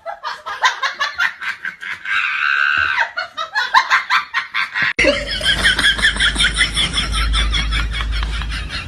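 High-pitched, rapidly pulsing laughter-like vocal sounds, about five a second. About five seconds in, a cut brings a second burst of similar pulsing calls over a steady low hum.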